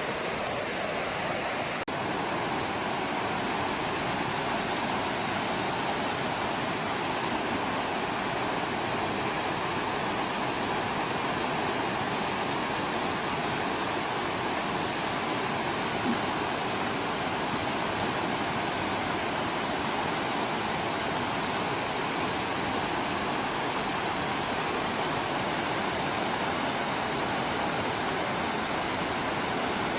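Mountain valley stream rushing steadily over rocks, running high and strong after a recent typhoon.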